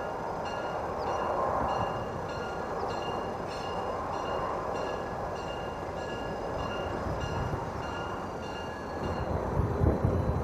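Freight train rumbling along the track while a bell rings steadily, about one and a half strikes a second. The bell stops near the end, and the train's rumble then grows louder.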